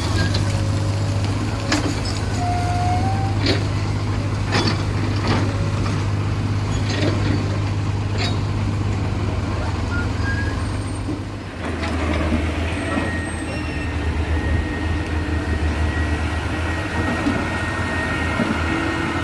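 Heavy diesel engines running steadily, with a series of sharp knocks and clanks over the first half. About halfway through the deep engine note drops and changes, as a different machine or vehicle takes over.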